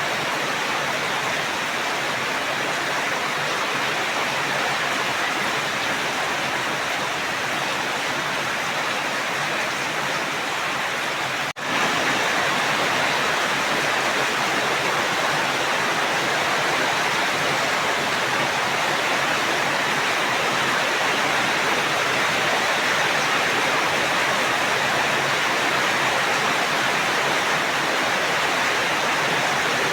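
Steady heavy rain, a continuous even hiss. A momentary break in the sound comes a little over a third of the way in, after which the rain runs on slightly louder.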